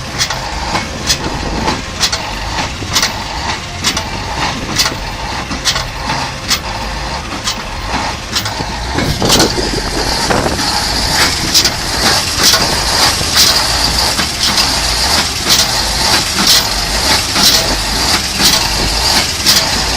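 Heavy off-road truck engine running under load, with a sharp click about once a second. A hiss comes in about halfway through.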